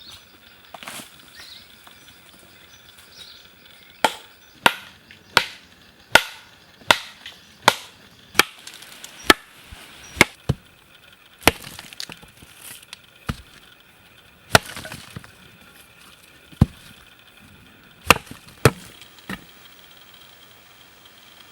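Wood being chopped with a blade. A quick run of sharp strikes, about one and a half per second, is followed by a few scattered blows.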